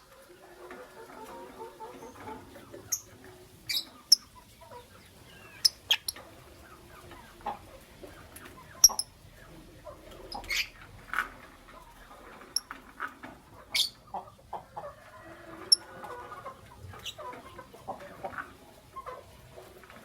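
Lovebirds chirping: about a dozen short, sharp chirps scattered irregularly over soft, continuous chattering.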